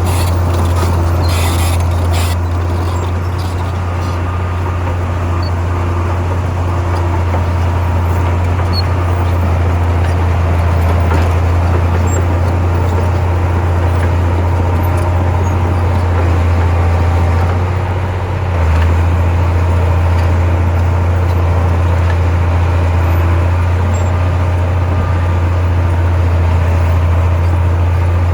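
Heavy earthmoving machine's diesel engine running steadily with a deep, constant drone, dipping briefly about 18 seconds in before picking back up.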